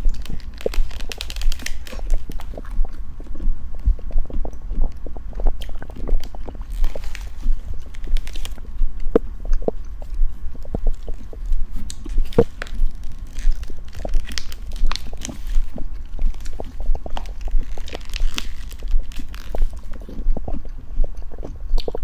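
Close-miked eating: a steady run of chewing and biting with many small crunches and mouth clicks.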